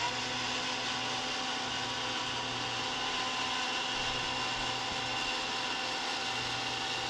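Lionel O-gauge model train running on the layout: a steady electric motor whine with wheel-on-rail rolling noise, starting abruptly.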